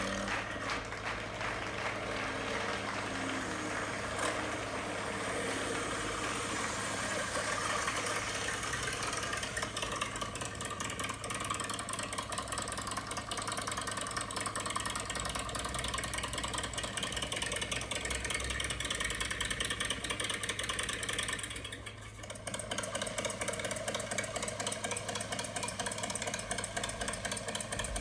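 An engine running steadily at idle, with a short drop in level about twenty-two seconds in.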